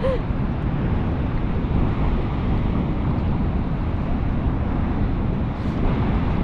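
Steady roar of Niagara Falls' rushing water, an even, unbroken noise.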